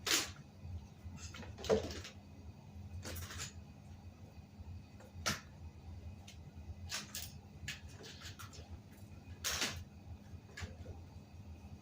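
Irregular clicks, knocks and short scrapes of hands and tools handling a bicycle tyre and wheel, over a steady low hum.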